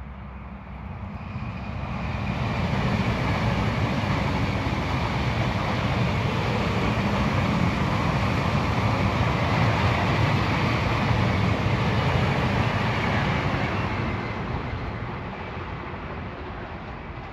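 An electric train passing close by. The sound of its wheels on the rails builds over about two seconds, holds steady and loud for about twelve, then fades away.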